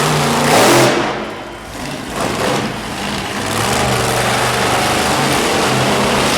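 Monster truck engine revving hard in surges during the first second or two, then running at steadier high revs.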